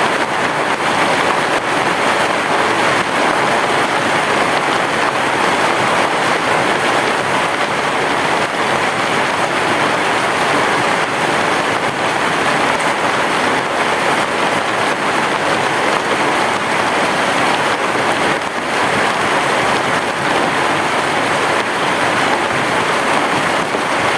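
Heavy rain falling steadily on a roof, an even, dense hiss with no thunder.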